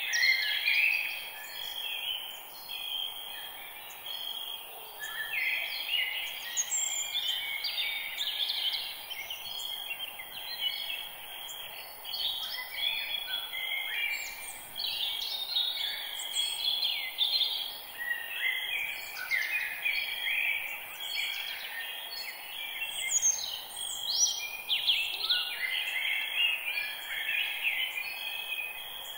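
Forest birdsong: many birds chirping and trilling at once, short overlapping calls all the way through, over a steady high hum like insects.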